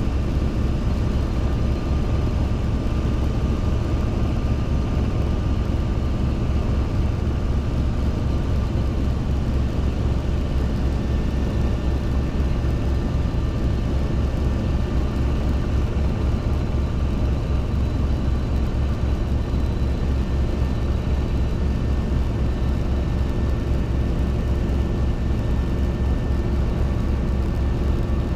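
Robinson R22 helicopter in steady flight: the piston engine and rotor running at a constant, even drone with a fast low pulsing.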